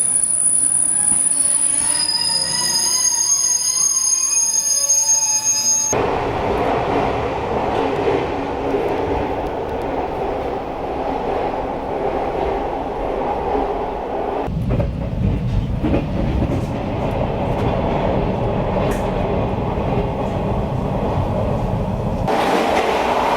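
Overnight sleeper train running on the rails: a steady rumble and rattle of wheels on track. For the first six seconds high, steady squealing tones sit over a quieter running sound. The sound then changes abruptly to a heavier rumble, and shifts suddenly again about halfway through and near the end.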